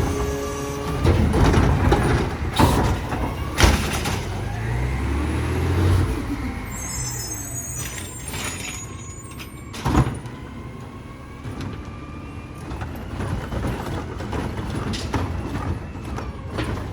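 Side-loader garbage truck at work: the diesel engine revs up and eases off with a rising whine, and a few sharp knocks ring out, the loudest between three and four seconds in and another about ten seconds in.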